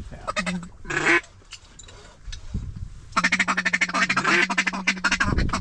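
Hand-blown duck call: a couple of short quacks, then from about three seconds in a fast, unbroken run of quacks, calling to ducks circling over the decoys.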